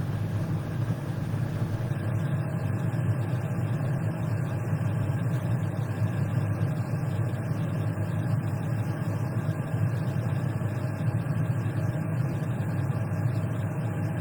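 Steady low mechanical hum, like an idling engine, with no change in level or pitch.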